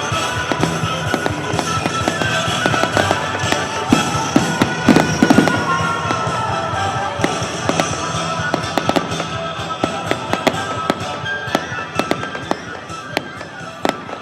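Fireworks display: rapid crackling and bangs with music playing alongside, and a cluster of louder bangs about five seconds in.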